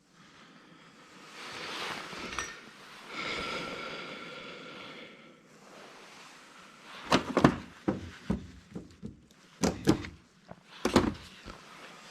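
Scrap metal parts being worked apart by hand: a scraping, squealing rub for a few seconds, then a run of sharp knocks and clinks.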